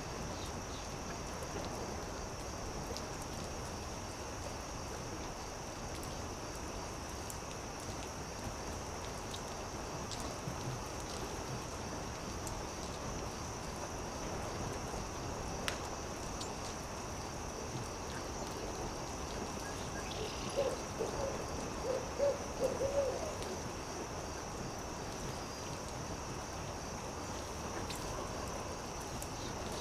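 Campfire crackling, with scattered small pops over a steady hiss and a constant high insect drone. About two-thirds of the way through, an owl gives a quick run of about six short hoots.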